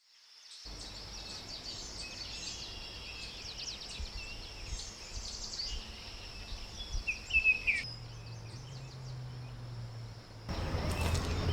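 Birds chirping in short calls over a steady high insect drone, with one louder, falling bird call about seven seconds in. A faint low hum comes in near the end, and the background noise grows louder just before the end.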